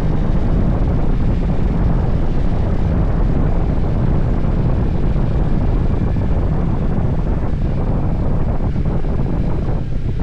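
Motorcycle on the move: a steady rush of wind on the microphone with the engine running underneath, dipping briefly near the end.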